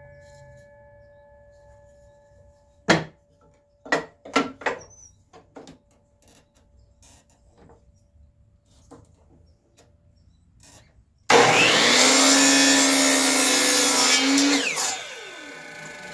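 A few sharp wooden knocks as boards are handled, then an electric saw starts suddenly and loudly, cutting a 45-degree angle in a wooden board for about three seconds before winding down with a falling whine near the end.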